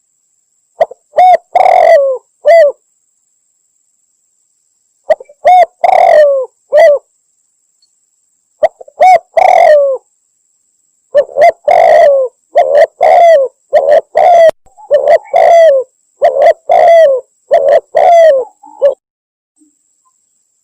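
Spotted dove (tekukur) cooing, a hunting lure recording that the uploader bills as a female calling a male. Short groups of coos with silent gaps come first, then a long run of repeated coos from about eleven seconds in until near the end.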